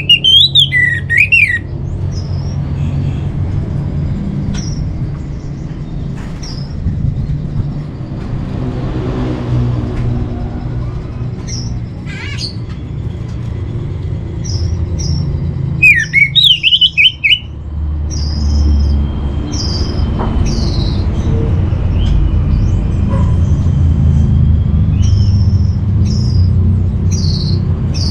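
Orange-headed thrush singing: two loud, rapid song phrases, one at the very start and one about 16 seconds in, with short high chirps scattered in between. A steady low rumble runs beneath.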